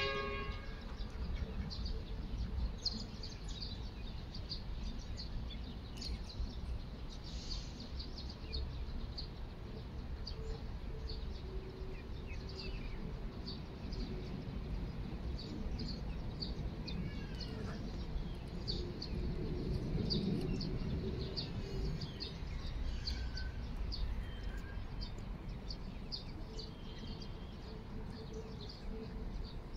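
Birds chirping on and off over a steady low outdoor background rumble.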